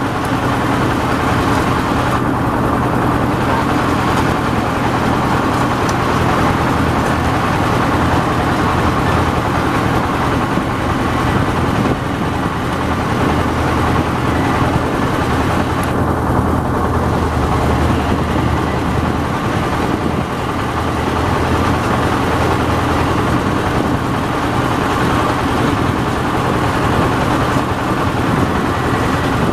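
Yanmar AW70V rice combine harvester running steadily while harvesting: a constant engine drone mixed with the rushing noise of the threshing and cutting machinery, with no change in engine speed. The high hiss briefly dips twice.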